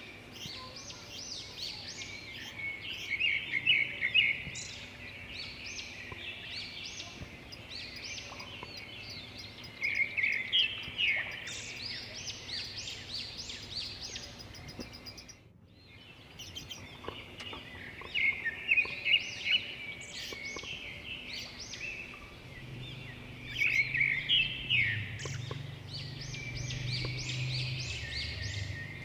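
Budgerigar chattering and warbling: a continuous run of quick high chirps and trills, with louder bursts every several seconds and a short break about halfway through. A low hum joins in over the last few seconds.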